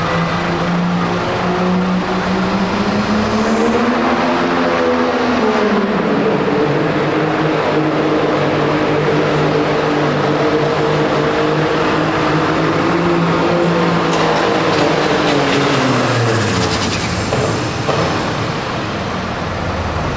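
Diesel pickup truck engine under full load during a truck pull. It climbs in pitch about four seconds in and holds at high revs with a high whistle over it, then drops away about three seconds before the end as the truck lets off.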